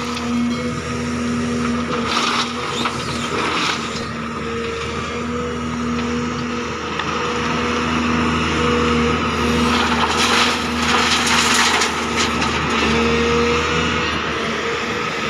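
Case CX220C excavator's diesel engine and hydraulics running under load with a steady whine, with louder rough, noisy stretches about two seconds in and again from about ten to twelve seconds in as the machine works.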